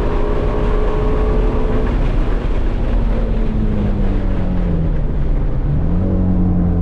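Shelby GT350's 5.2-litre flat-plane-crank V8 under way, heard from inside the cabin. Its pitch holds high at first, falls away through the middle as the revs drop, then steps back up about six seconds in and holds steady, over road and wind noise.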